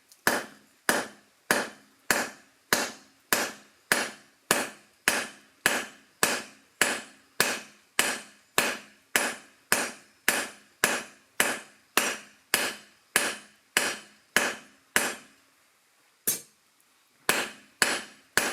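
Hammer blows on a 10mm round steel bar on an anvil, drawing the bar out into a point: a steady run of strikes about every 0.6 seconds, each with a short ring. There is a pause of about a second near the end, then a few more blows.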